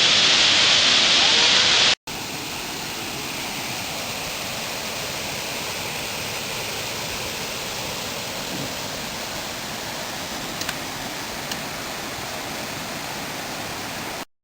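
Steady rushing of a waterfall. It is loud and hissy for the first two seconds, then drops abruptly to a quieter, duller rush, with two faint clicks near the end, and stops suddenly just before the end.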